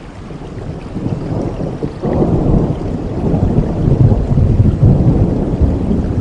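Rolling thunder over steady rain: a deep rumble that swells sharply about two seconds in and is loudest around the middle.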